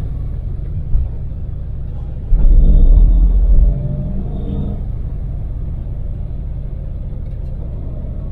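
Daewoo Damas mini van running at expressway speed: a steady low rumble of engine and road noise. A brief low bump comes about a second in, and a much louder low rumble lasting about a second and a half comes a couple of seconds later.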